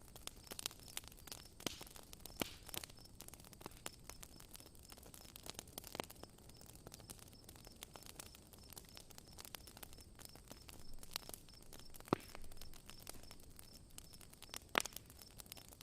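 Campfire crackling: wood burning with irregular small pops and snaps, two louder pops near the end. A faint high chirp repeats evenly, about three times a second, behind it.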